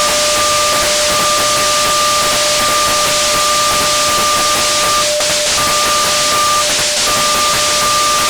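Erica Synths Perkons HD-01 drum synthesizer putting out a sustained hiss of noise. Under it a steady tone is held, and a higher tone comes and goes, dropping out several times.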